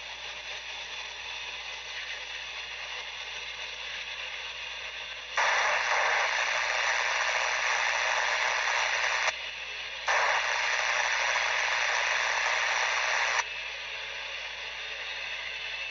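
Railroad radio hissing with static between transmissions, with two louder bursts of static about five and ten seconds in, each lasting three to four seconds and cutting off abruptly.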